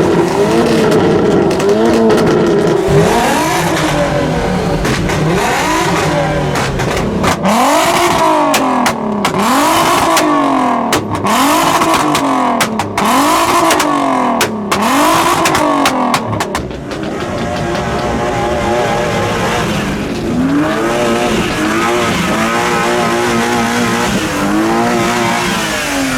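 A car engine revved hard over and over, its pitch rising and falling about once a second, with sharp cracks from the exhaust through the middle stretch.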